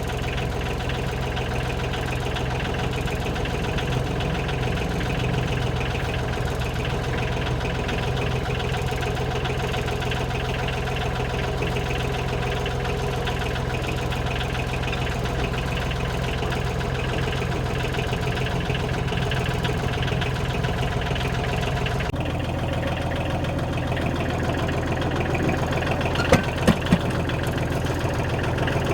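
An engine idling steadily. About 22 seconds in the sound shifts abruptly, and near the end there are three short sharp clicks.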